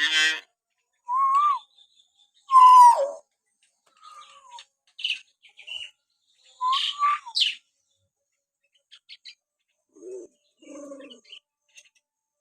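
Common hill myna giving its natural whistles and calls: a string of separate short calls with pauses between, mixing clear whistles that rise and fall or glide downward with harsher, raspy notes.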